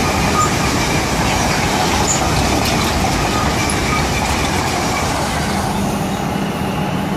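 Loaded intermodal freight wagons rolling past at speed, with a steady rumble and clatter of wheels on the rail and brief faint high squeals. About five and a half seconds in, the noise thins out to a steady low hum.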